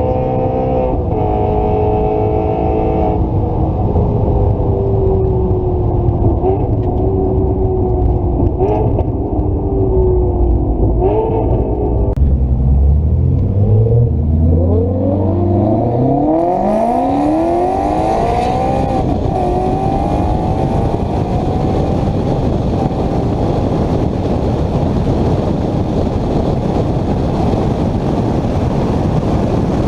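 A high-performance car's engine running, then revving up hard through the gears from a little before halfway. After that, a steady rush of wind and road noise at speed dominates.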